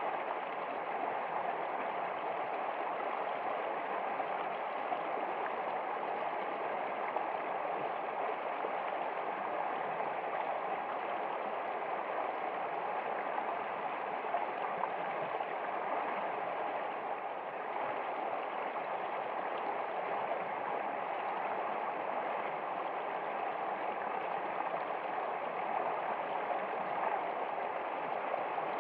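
Running water of a stream, a steady and unbroken rush.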